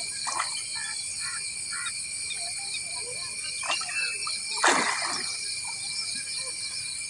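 Steady high-pitched drone of insects such as cicadas or crickets, with scattered bird chirps in the first couple of seconds. A short rushing burst of noise comes about two-thirds of the way through.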